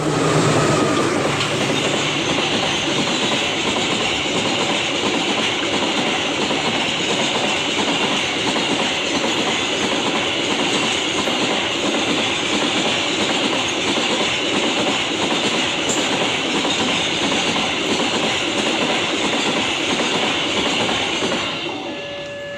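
A train passing close by, its wheels clattering steadily over the rails. The sound fades near the end as it goes by.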